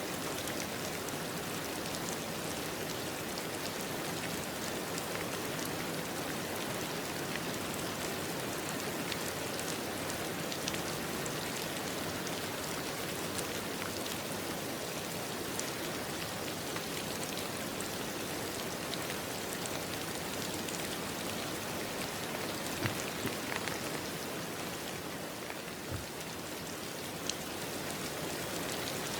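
Steady rain falling on a surface, an even hiss with scattered individual drops ticking. It eases slightly for a moment near the end before picking up again.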